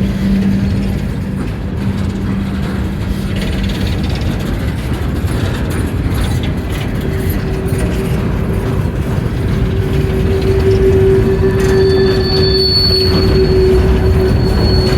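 Empty coal train cars rolling past with a steady rumble of wheels on rail and tonal wheel squeal: a lower squeal at first, a higher one from about six seconds in, and a thin high-pitched squeal joining near the end.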